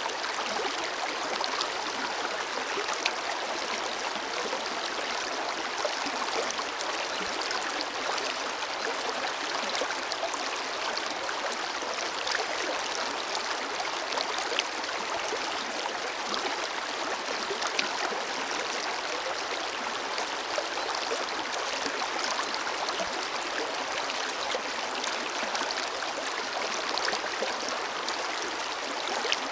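Forest river flowing: a steady rush of water with many small splashes.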